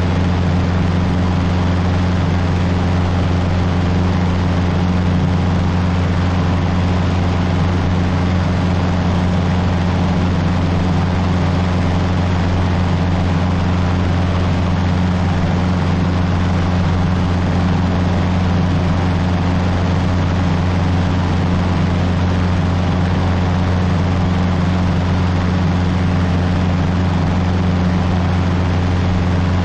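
Cessna 150's Continental O-200 four-cylinder engine and propeller droning steadily in flight, a constant low hum with no change in pitch or level.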